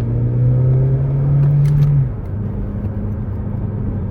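Scion iM's 1.8-litre four-cylinder engine through a DNA Motoring catback exhaust, heard from inside the cabin, accelerating under throttle with a rising note. About two seconds in the note drops sharply at a gear change, then settles to a steadier, lower drone.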